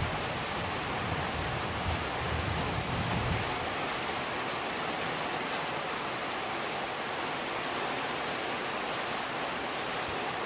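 Steady rain falling as an even, continuous hiss. A low rumble sits underneath it for the first three seconds or so, then stops.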